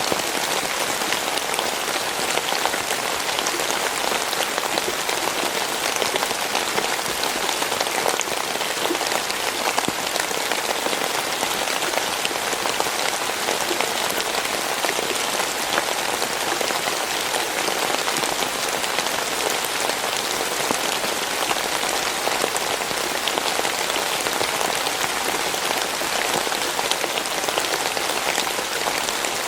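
Steady rain falling, an even hiss dotted with many small drop ticks, unchanging throughout.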